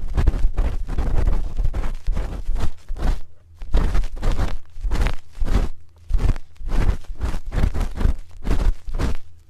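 Ear pick scraping and rubbing close against the microphone in quick, repeated scratchy strokes, about three or four a second, with a deep rumble from handling the mic and two short pauses.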